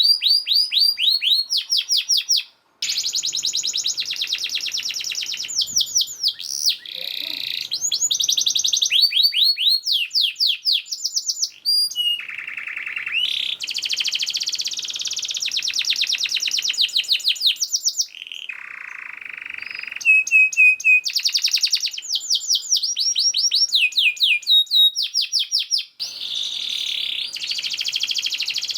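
Domestic canary singing fast, tight trills of rapidly repeated falling notes, with a few lower buzzy rolls; the song breaks off abruptly in places.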